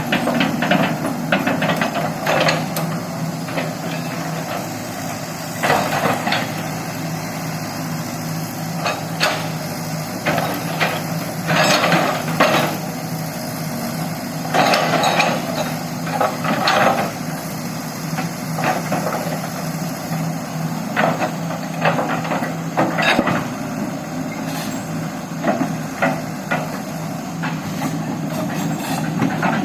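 Excavator's diesel engine running steadily under work, with irregular metallic clanks and knocks every second or two from the machine working.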